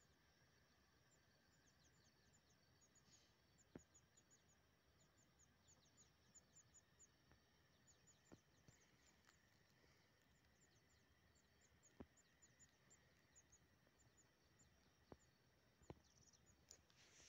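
Near silence outdoors, with faint, rapid high-pitched chirping of small birds throughout, a few sharp faint clicks, and a soft rustle near the end.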